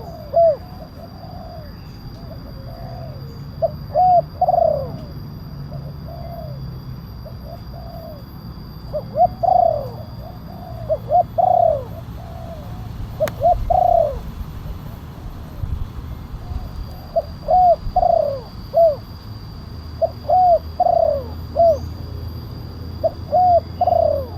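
Spotted dove (tekukur) cooing: loud phrases of three or four arched coo notes repeated about every three seconds, with fainter cooing between them. It is a caller recording used to lure wild doves.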